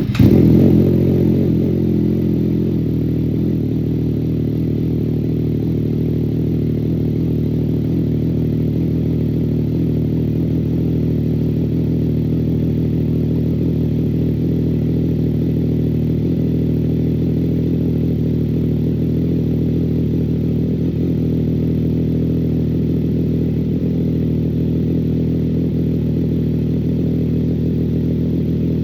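CFMOTO 675SS's inline three-cylinder engine just after a cold start, flaring up briefly and settling within a few seconds into a steady idle. It runs through an aftermarket Team MSC exhaust with the baffle in, on a tune and high-flow air filter.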